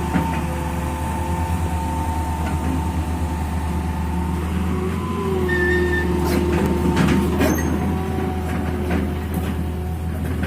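Heavy vehicle engine running steadily with a low drone and a steady whine above it, with a few sharp knocks about six to seven seconds in.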